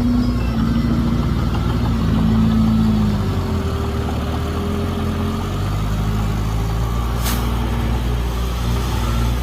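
Heavy diesel engine of earthmoving machinery running, its pitch rising briefly a couple of seconds in and then settling back. A brief sharp sound about seven seconds in.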